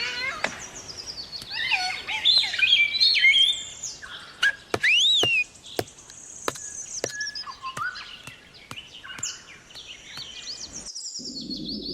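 Cockatoo calling: a run of high chirps and whistles with one loud call that rises and falls about five seconds in, among short sharp clicks.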